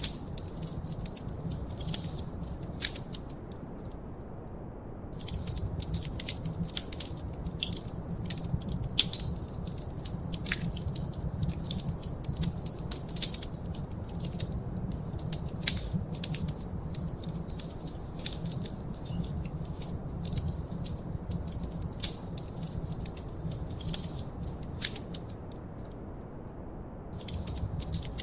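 Wood fire in a fireplace crackling, with dense, irregular small snaps and pops over a steady low rumble. The crackling dies down briefly about four seconds in and again near the end.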